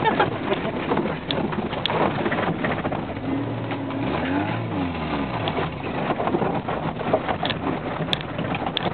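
Off-road truck engine revving, with one clear rise and fall in pitch about four seconds in, over a dense crackling background noise.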